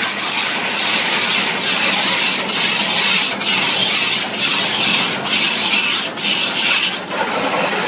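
Rinse water spraying onto a car in an automatic car wash, heard from inside the cabin: a loud steady hiss that swells and dips about once a second.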